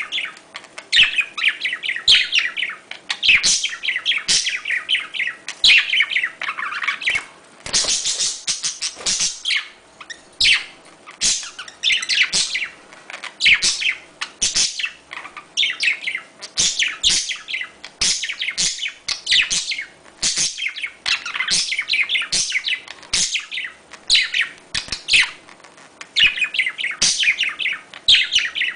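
Budgerigars chattering and warbling without pause: dense, quick chirps and clicks from several birds at once, the calls budgie keepers play to stir breeding.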